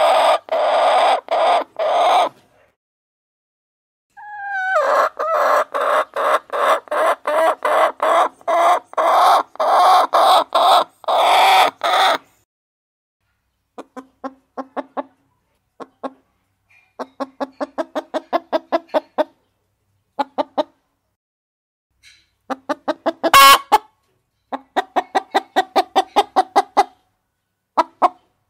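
Hens clucking in long runs of short, quickly repeated notes, broken by brief pauses, with one sharper, louder call about two-thirds of the way through.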